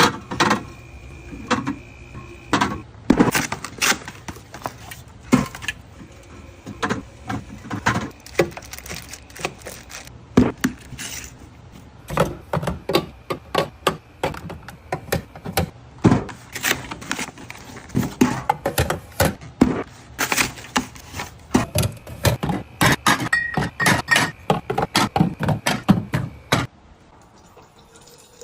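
Drink bottles knocking and clinking as they are stacked onto the shelves of a drinks fridge: a quick, irregular run of sharp knocks that stops shortly before the end.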